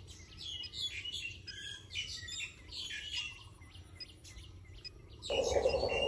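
Small birds chirping and tweeting over and over. About five seconds in, a steady whirring noise starts and grows louder.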